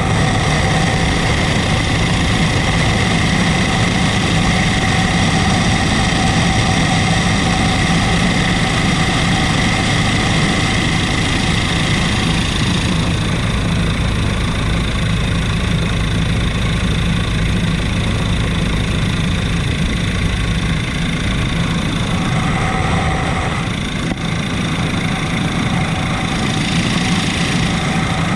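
Helicopter engine and rotor noise heard from inside the cabin in flight: a steady loud drone with steady high-pitched tones over it.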